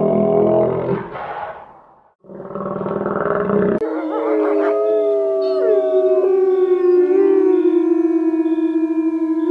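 A dense, rough animal call for about two seconds, a brief silence, and a second short burst, then from about four seconds in several canines howling together in long, overlapping, wavering tones.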